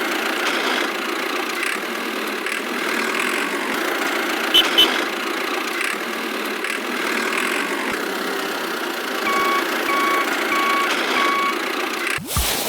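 Engine of a miniature construction vehicle running steadily, with two short chirps a little before halfway and four short, evenly spaced reversing beeps about three-quarters through. A sudden loud knock comes near the end.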